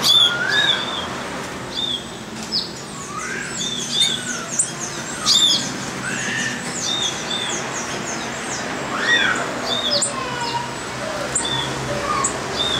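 Several birds calling at once: a short high chirp repeated every second or so, a flurry of quick falling notes in the middle, and lower arched whistles scattered throughout.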